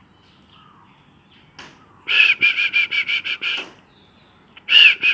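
Zebra dove cooing: a rapid run of evenly spaced notes, about five a second, starting about two seconds in, and a second run beginning near the end.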